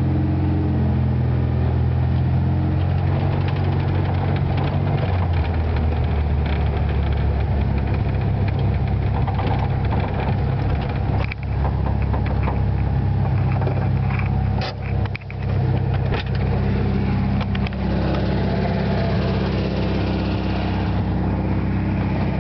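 The rebuilt 1600cc air-cooled flat-four of a 1973 Volkswagen Super Beetle running. It holds a steady note for the first five seconds, then runs rougher and less evenly, with two brief dips in level.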